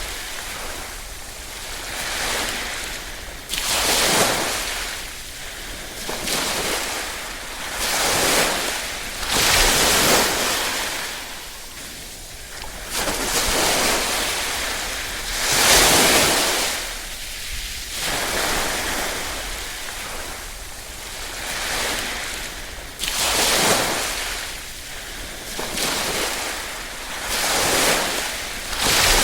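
Small waves lapping and washing on a shore, the hiss of surf swelling and ebbing about every two to three seconds.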